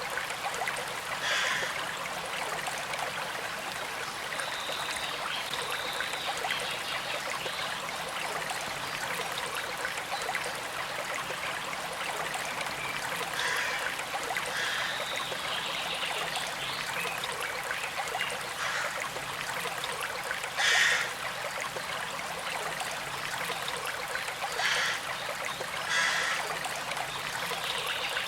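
Shallow creek flowing steadily, a continuous trickle of running water, with a few brief louder spurts, the strongest about two-thirds of the way through.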